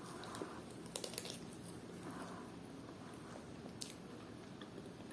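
Close-miked chewing and biting into a fried chicken coxinha, soft wet mouth sounds with scattered small clicks of the crust, the sharpest about a second in and near four seconds.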